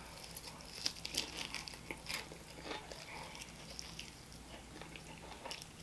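Close-miked biting and chewing of a sauced fried chicken wing: faint, scattered small crunches and clicks as the skin and meat are bitten off the bone.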